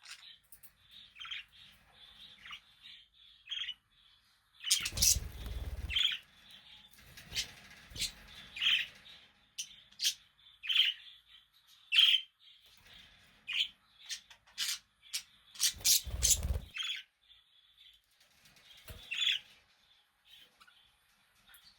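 Budgerigars chirping: a steady stream of short, quick chirps and warbles, with two louder noisy bursts about five and sixteen seconds in.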